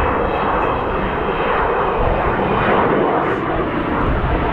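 Loud, steady jet noise from the Avro Vulcan's four Rolls-Royce Olympus turbojets as the bomber flies its display, a broad rushing sound that swells and fades slightly.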